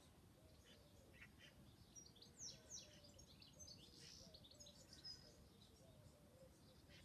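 Faint birds chirping outdoors: scattered short high chirps with a few quick downward-sweeping notes, busiest in the middle, over quiet background hiss.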